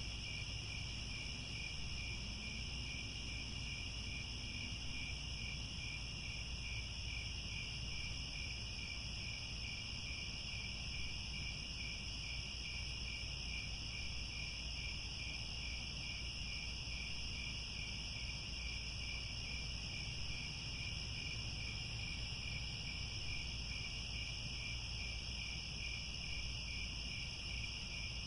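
A chorus of crickets chirping steadily in two high, unbroken bands, the lower one pulsing at an even rhythm, over a faint low rumble.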